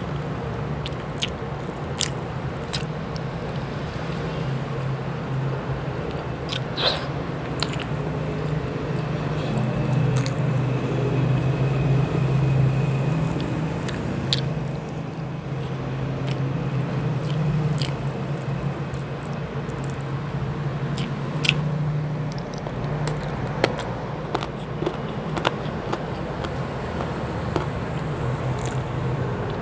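Close-miked chewing and mouth noises of someone eating chicken adobo and rice by hand, with many short wet clicks and smacks scattered throughout. A steady low hum runs underneath.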